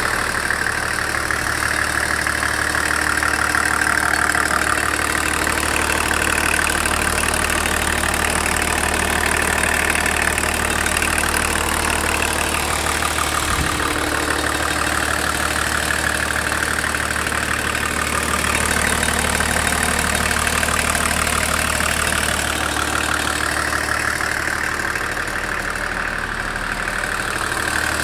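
BMW M51 2.5-litre inline-six turbodiesel (TDS) running at a steady speed, with a metallic knock coming through every few seconds: a fault whose cause the owner does not know.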